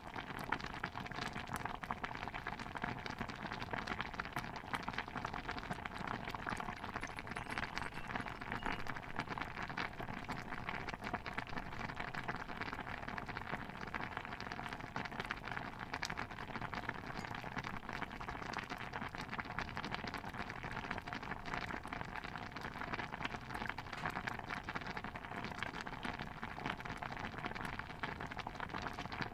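A pot of stew bubbling steadily: a dense, unbroken patter of small pops and ticks.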